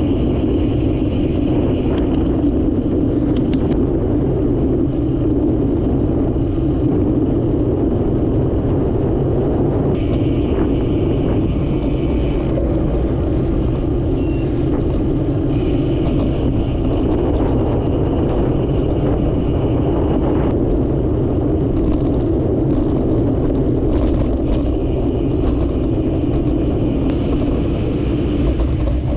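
Steady road and wind noise of a bicycle ride, an even rumble without breaks or clear engine tones.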